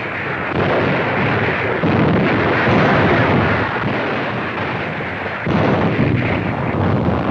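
Newsreel battle sound effects: a loud, dense, continuous rumble of gunfire and explosions, swelling about two seconds in and again about five and a half seconds in.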